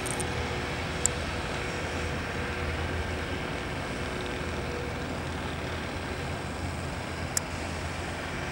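Steady low rumble of heavy truck engines running at a concrete pour, with a faint steady hum over it. Two short sharp clicks come about a second in and near the end.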